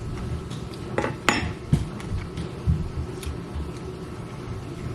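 Cutlery clinking against a dish: a few sharp metallic clinks, the loudest just over a second in, with soft knocks of handling around them.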